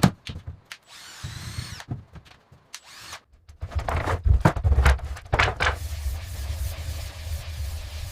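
Power-tool work: sharp knocks and clatter, a short power-drill whine about a second in, then a steady low power-tool drone with loud knocks over it from about halfway.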